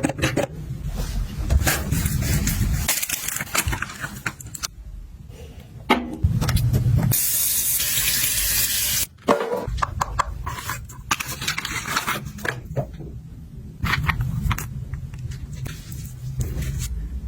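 Products and containers being handled: a run of small clicks and knocks over low handling noise, with a steady hiss lasting about two seconds starting about seven seconds in.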